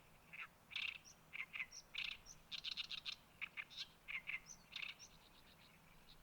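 A bird calling in a rapid, chattering series of short, harsh notes for about five seconds, then only a few faint calls near the end.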